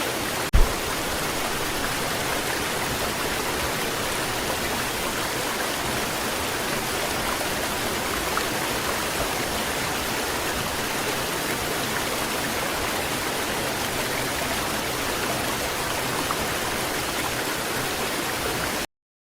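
A waterfall running steadily: an even rush of falling water. A single short thump sounds about half a second in, and the sound cuts off abruptly near the end.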